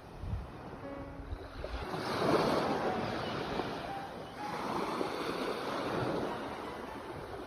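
Sea waves surging onto a shore: a steady wash of surf that swells and fades, with two waves cresting, one about two seconds in and another about five seconds in.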